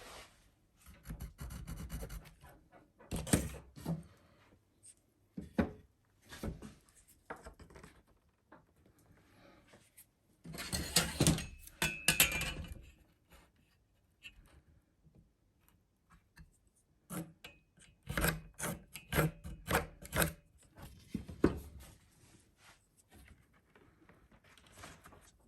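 Hand woodworking on wooden boards: pieces knocked and rubbed, with a longer scraping stretch about ten seconds in and a quick run of sharp knocks a few seconds later.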